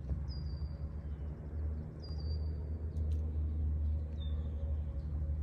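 Bird calls: three short, high whistled notes, each falling slightly, over a steady low rumble. Two sharp clicks come about three seconds in.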